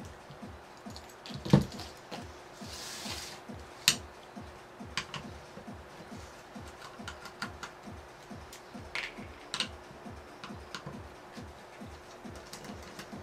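Scattered small clicks and taps of parts and tools being handled while taking apart a sumo robot, with a short hiss about three seconds in, over background music with a quick, steady low beat.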